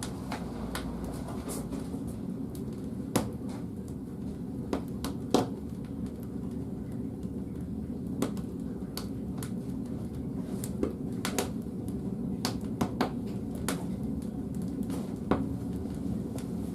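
Split firewood burning in the firebox of a wood-fired bathhouse boiler: a steady low rumble of the fire, with irregular sharp crackles and pops from the burning wood.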